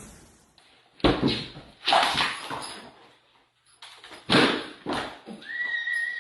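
An animal's loud, harsh cries, three of them, irregularly spaced. A steady high whistle-like tone comes in near the end.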